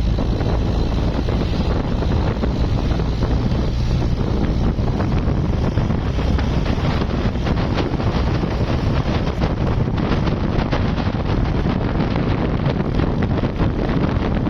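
Steady road and wind noise of a moving car, with wind rumbling and buffeting on the microphone.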